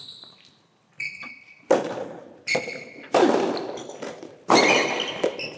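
Soft tennis rally: the rubber ball is struck by rackets and bounces about six times, each hit sharp and echoing in a large indoor hall, with short high squeaks between the hits.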